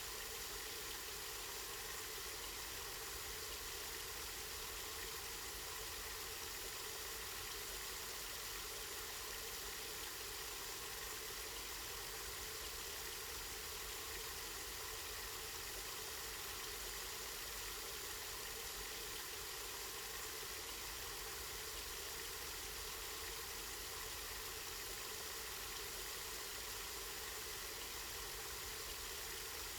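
Water flowing steadily from a spring, an even splashing hiss with no breaks.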